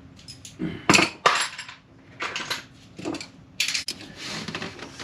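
Metal hand tools clinking and knocking on metal in a run of sharp separate strikes, the loudest pair about a second in, then smaller clatters every half second or so.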